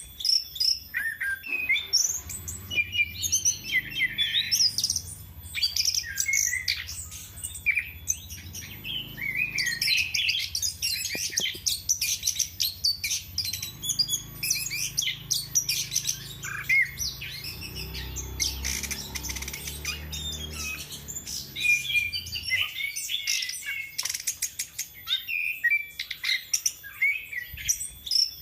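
Chestnut-capped thrush (anis kembang) in full song: a fast, unbroken stream of varied chirps, whistles and trills.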